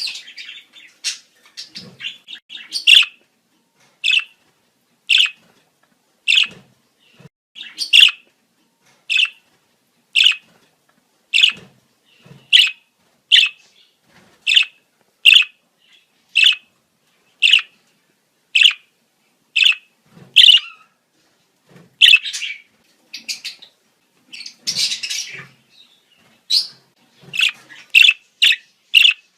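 Budgerigars giving breeding-season calls: short, sharp chirps about once a second, with bursts of busier warbling chatter at the start and again near the end.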